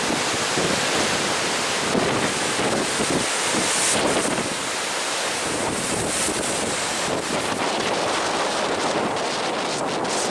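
Strong wind buffeting the microphone over the steady rush of Lake Superior waves breaking.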